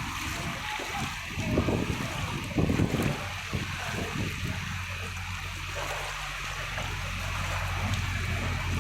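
Heavy rain hissing steadily, with runoff water running and splashing. The splashing gets louder about one and a half to three seconds in, over a low steady hum.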